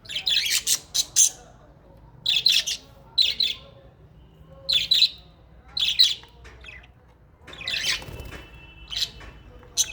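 Small pet parrots chirping: short, shrill calls in bursts about once a second, with a couple of thin held whistles near the end.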